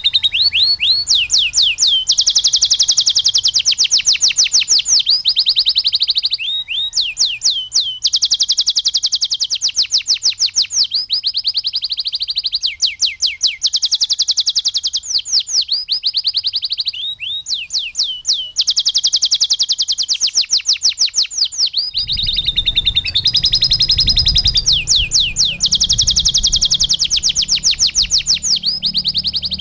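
Domestic canary singing fast, high-pitched trilled rolls in phrases of a few seconds, with short breaks between them. The song carries lovebird-style phrases mixed in. A low rumble comes in under the song about three-quarters of the way through.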